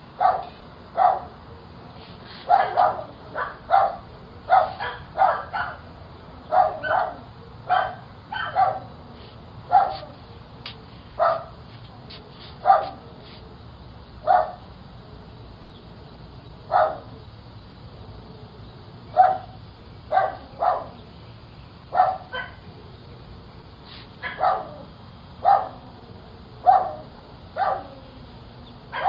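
A dog barking over and over, single barks about a second apart, with a few pauses of two or three seconds past the middle.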